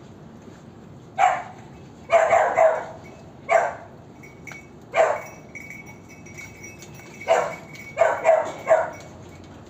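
A dog barking about ten times, single barks between quick runs of three.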